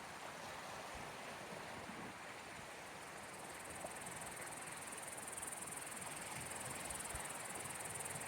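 Gentle, steady wash of small waves on the Gulf of Finland shore, with a constant high-pitched trill of insects that grows a little louder about four seconds in.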